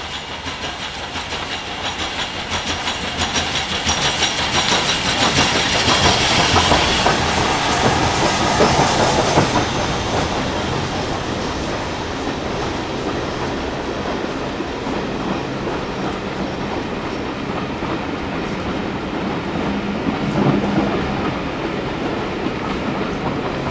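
Steam train passing, wheels clattering over rail joints. The sound builds to its loudest about six to nine seconds in, then eases to a steady run, with a short low tone about twenty seconds in.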